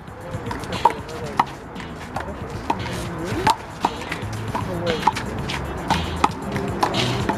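Rubber handball smacking hands and the wall in a rally: a string of sharp slaps with a short ringing ping, about one every half second.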